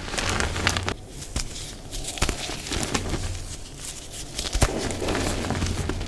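Dyed gym chalk blocks being crushed and crumbled: a gritty, crunchy crumbling with sharp little cracks here and there, softer in the middle and denser again near the end.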